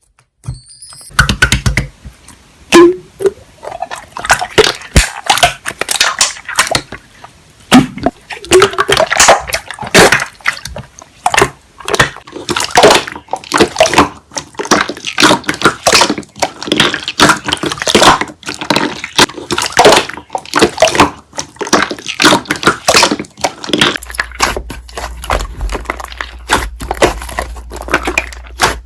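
Slime being squished and stretched by hand, giving a dense, irregular run of sharp wet clicks and pops. A low steady hum joins underneath near the end.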